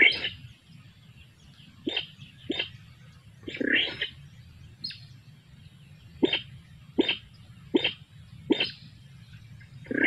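Birds giving short, sharp calls, about nine in ten seconds at uneven intervals, over a faint low background rumble.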